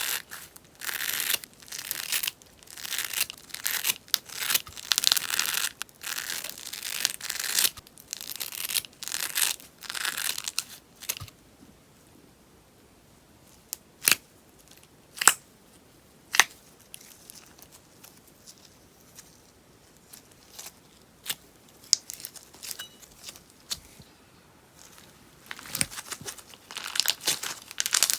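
Sponge slime crackling and popping as it is worked by hand, in dense runs of small pops. About ten seconds in it turns quiet, with only a few single sharp pops, and dense crackling starts again near the end.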